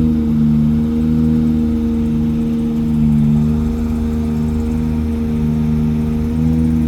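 The truck's 8-litre gas V8 running steadily, with an even hum and a lower tone that drops out and returns every second or so.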